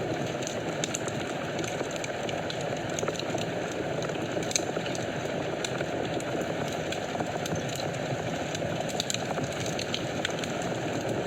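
Wood fire in a fireplace crackling: a steady low rush of flames with scattered sharp pops and snaps, the loudest pop about four and a half seconds in.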